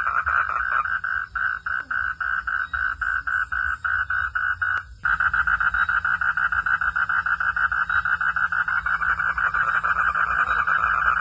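Frogs calling at night in a chorus of rapid, evenly repeated pulses, about four or five a second. Just before the middle the sound drops out for an instant, and the pulses come back denser.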